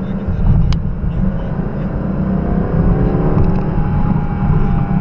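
2019 Aston Martin Vantage's twin-turbo V8 pulling on the road under a heavy low rumble of road and wind noise. The engine note climbs about two and a half seconds in and then eases slightly, with a brief click near the start.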